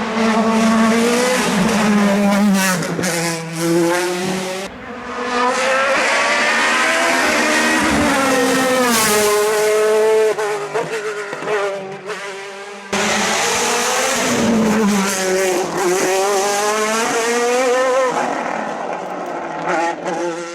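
Osella FA30 hillclimb race car with a Judd engine, revving hard with repeated rising and falling pitch through gear changes. The sound changes abruptly twice, about 5 and 13 seconds in.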